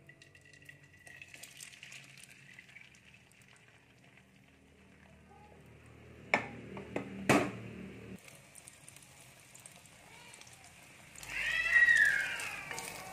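Beaten egg with chopped vegetables poured into a hot oiled wok and sizzling faintly, with a spatula knocking sharply against the wok a few times about six to seven seconds in. Near the end, a louder run of high-pitched, rising-and-falling calls.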